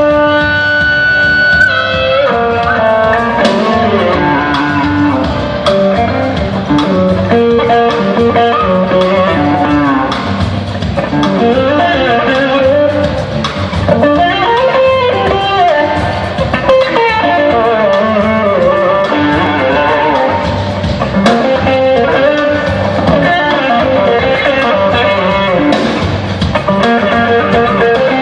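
Live rock band playing, with an electric guitar soloing in sliding, gliding notes over bass and drums.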